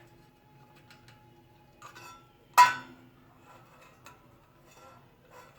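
A sharp clink of hard objects striking, with a short ring, about two and a half seconds in, among a few fainter taps and knocks.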